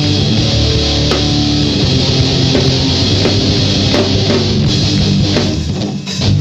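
Rock band playing an instrumental passage live: guitars and drum kit together, with a short break about six seconds in before the band comes back in.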